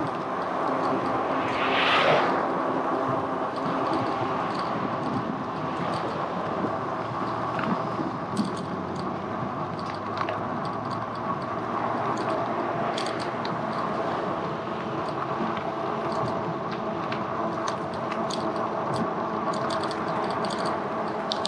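Riding noise on a moving e-bike: steady road and wind noise with a hum made of several steady tones underneath. A brief louder swell comes about two seconds in, and faint light clicks are scattered through it.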